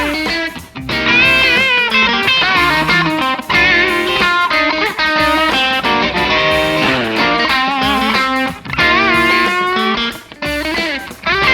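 2001 Fender Custom Shop Nocaster electric guitar played through an amp: single-note lead phrases with string bends and vibrato, with brief pauses between phrases.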